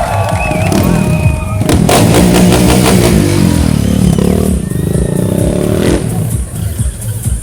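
Loud music with a steady pounding beat, with a stunt motorcycle's engine revving through the middle.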